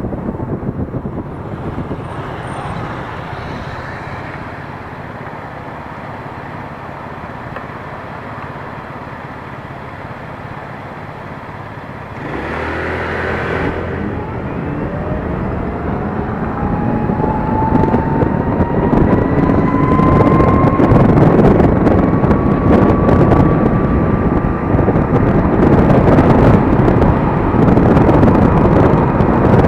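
Gogoro 2 electric scooter ride: for the first stretch a fairly quiet, steady traffic hum, then about twelve seconds in the noise jumps and keeps growing as the scooter picks up speed, with a thin electric-motor whine rising steadily in pitch and wind rushing over the microphone.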